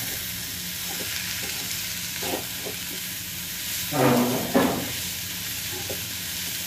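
Drumstick flowers and onion sizzling in a steel pan while a steel spoon stirs and scrapes them: a steady frying hiss with light scrapes. A brief louder sound comes about four seconds in.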